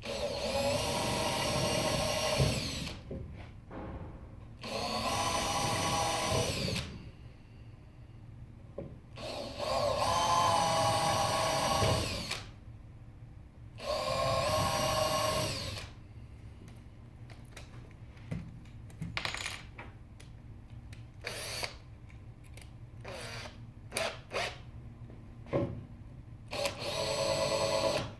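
Power drill running in five bursts of two to three seconds each, with a steady motor whine, and light knocks and clicks between the bursts.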